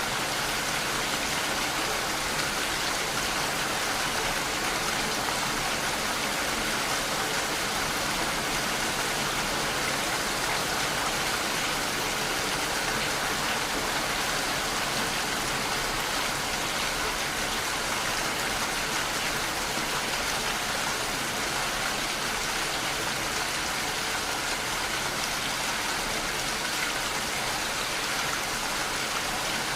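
Steady, even rainfall, a continuous hiss of rain on surfaces with no let-up or change in strength.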